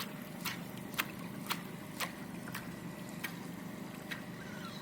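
Small boat's motor running slowly with a steady low hum and a thin high whine, under sharp short ticks about twice a second that space out toward the end.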